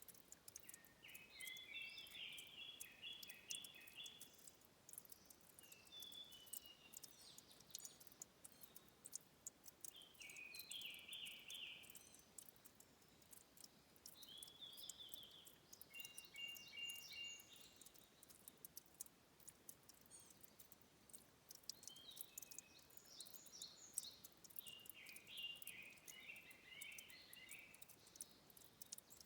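A songbird singing repeated short phrases of quick, high notes, about six songs with pauses between them. Underneath is a faint, constant ticking of trickling water at a spring source.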